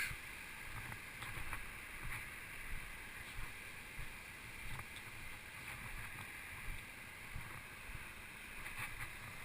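Footsteps walking along a trail, about three steps every two seconds, over a steady rushing background hiss.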